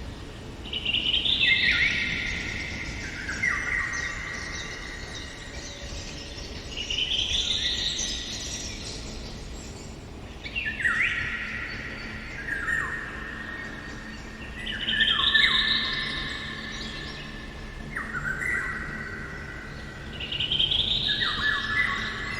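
A songbird singing five descending phrases, each running from high notes down in steps to lower, ringing held notes, with pauses of a few seconds between them.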